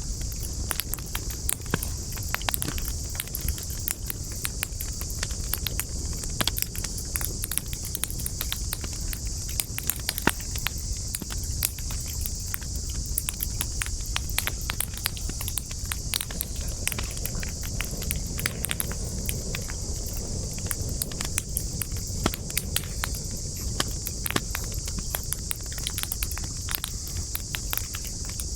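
Wood fire burning with dense, irregular crackles and pops, over a low rumble of the flames. A steady high-pitched insect chorus, like crickets, runs underneath.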